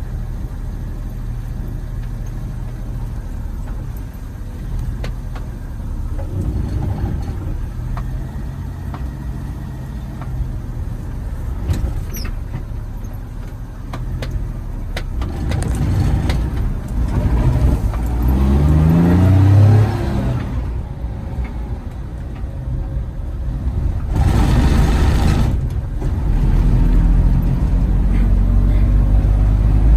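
Vehicle engine running with a steady low rumble, revving up with a rising pitch about two-thirds of the way in. A short rushing hiss follows a few seconds later.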